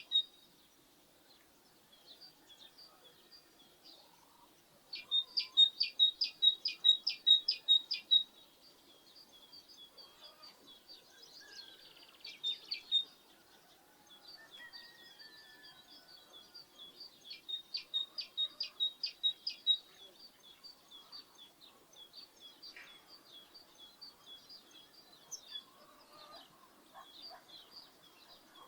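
Small birds chirping and singing, with one bird giving loud runs of quick repeated sharp notes, about three a second, in two bouts: one about five seconds in, the other about seventeen seconds in.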